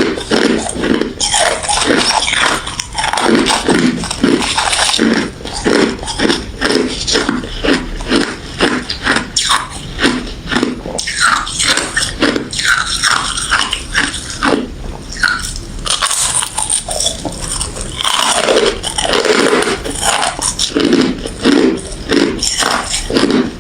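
Close-up crunching of refrozen crushed ice and frosty freezer ice being bitten and chewed, a rapid irregular run of loud crunches.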